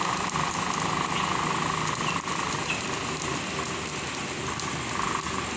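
Freshly lit campfire burning, with dense crackling and popping over a steady hum.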